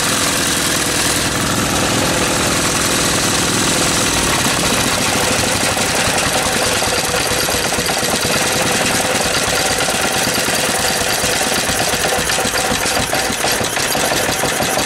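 Small single-cylinder petrol engine with spark ignition and a carburettor running steadily at a fast idle, firing in a rapid even rhythm. Its inlet valve is still leaking a bit, which the owner reckons is probably why it does not like running slowly.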